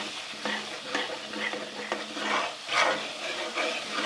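Onion, yogurt and spice masala sizzling in hot oil in a pan, stirred with repeated scraping strokes of a spoon: the spices being fried (bhuna) so they don't stay raw.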